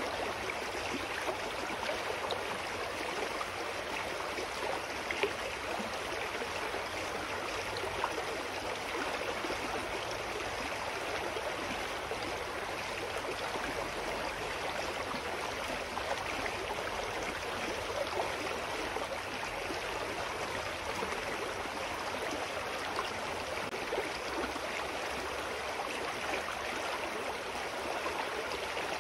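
A shallow mountain stream flowing over rocks, a steady rush of water with small splashes and gurgles.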